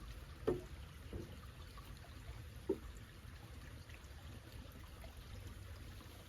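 Wooden boards knocking as they are handled: two short sharp knocks, about half a second in and just before three seconds in, with a few softer knocks, over a faint steady background hiss.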